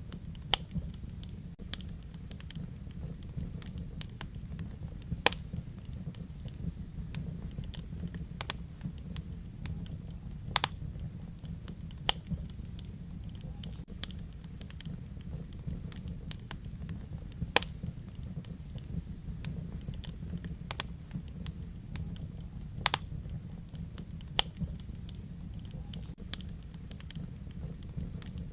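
Wood fire in a fireplace burning with a steady low rumble and irregular sharp crackles and pops, a dozen or more spread unevenly.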